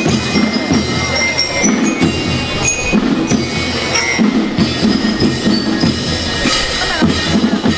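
School rhythm band (banda rítmica) playing: drums keeping a steady beat under a high, bell-like melody from lyres or glockenspiels.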